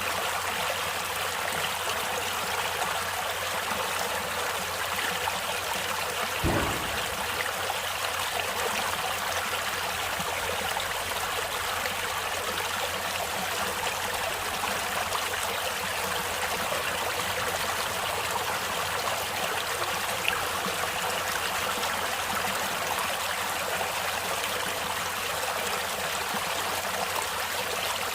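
Stream water running steadily over rocks, an even rushing with trickling. A single dull thump about six seconds in.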